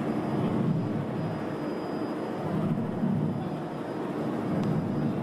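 Aircraft engine running: a steady low rumble with a thin high whine held throughout.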